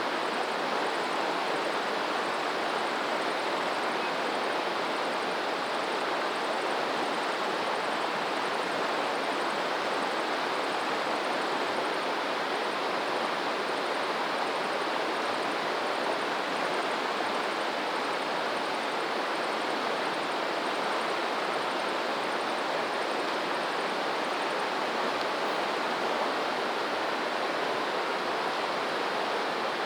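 Stream water rushing steadily, an even unbroken flow.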